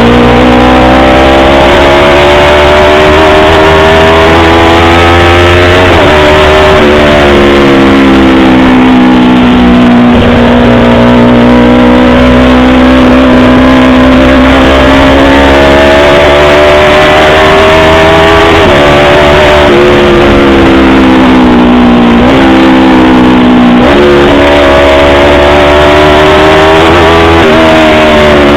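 Yamaha R25 motorcycle's parallel-twin engine running loudly under way, its pitch slowly rising and falling with several sudden sharp breaks in pitch along the way.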